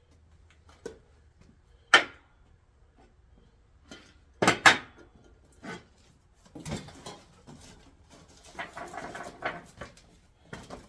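Handling noises: a sharp knock about two seconds in and a louder double knock about halfway through, then several seconds of rustling and scraping.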